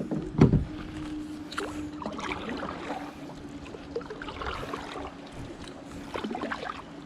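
Kayak and paddle working through a narrow creek: a loud knock about half a second in, then scattered light clicks and scrapes of paddle and hull, over a faint steady hum.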